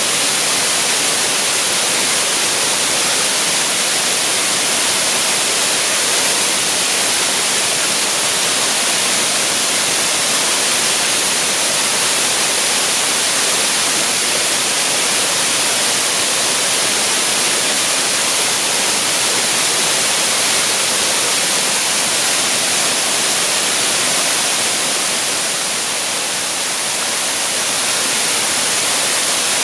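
Waterfall pouring steadily: a loud, even rush of falling water, bright and hissy, with a slight dip in level about three-quarters of the way through.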